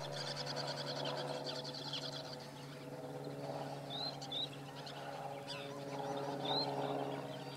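Birds calling in a marsh: a rapid high trill for the first two seconds, then short rising whistles, two close together about four seconds in and one more later, over a steady low hum.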